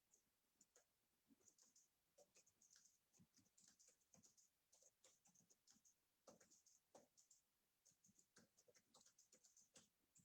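Faint, scattered light clicks and scratches of paper and tape being handled at a craft table.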